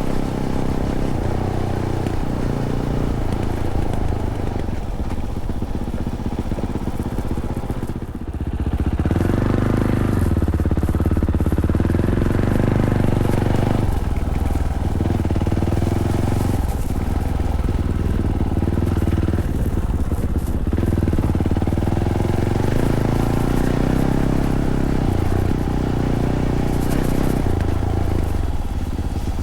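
Fantic Caballero 500's single-cylinder engine running through its stock Arrow exhaust as the bike is ridden. The engine note drops off about eight seconds in, then pulls harder and stays louder, easing back briefly a few more times.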